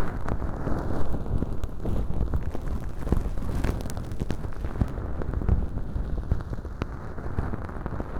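Bonten (feather-tuft ear pick) brushing and rustling inside a transparent-tube ear model packed with dry, flaky fake earwax. It makes a dense, continuous crackling rustle with scattered small clicks.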